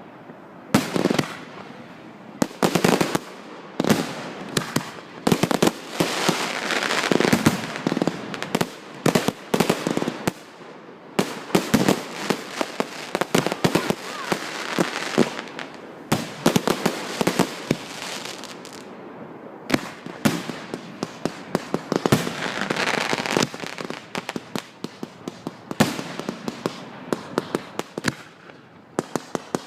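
Fireworks going off: a long run of sharp bangs and crackles, coming in dense barrages with short lulls between, and a fast string of small cracks near the end.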